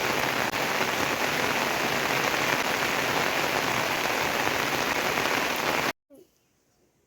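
Heavy rain falling as a steady, dense hiss, cut off abruptly about six seconds in, leaving near silence.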